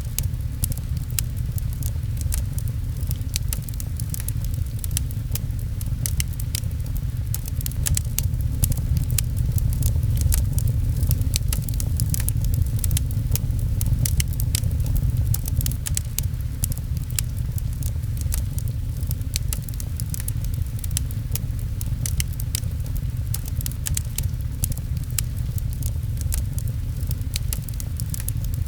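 Rain and a crackling wood fire: a steady low rumble under a dense scatter of sharp crackles and pops.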